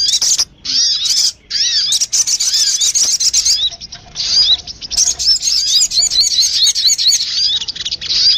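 Lure-call recording of the sogun bird: rapid, dense, high chirps made of short arching notes, several overlapping at once, with a few brief breaks.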